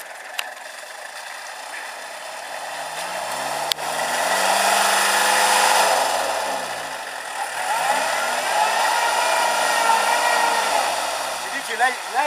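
Off-road 4x4's engine revving under load, rising in pitch and falling back twice, over a loud rushing noise.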